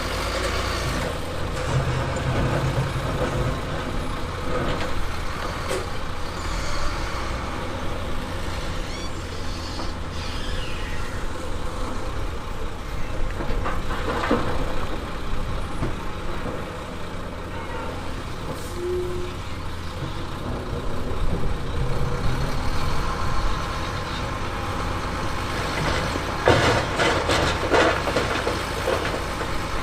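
Heavy diesel earthmoving machinery running steadily, with a few sudden knocks and clatters about halfway through and a run of them near the end.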